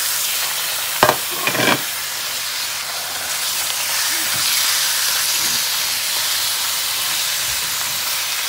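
Chicken strips and onions frying in hot oil in a pan: a steady sizzle, with a short clatter twice about a second in.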